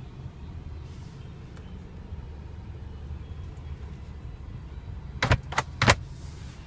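Glove box lid and latch clicking as it is worked: three sharp clicks a little over five seconds in, over a steady low hum.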